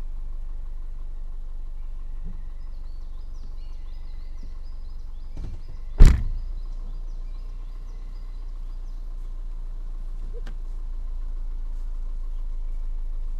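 A car door shuts with a single loud thunk about six seconds in, over a steady low rumble. Faint high chirps come and go in the background.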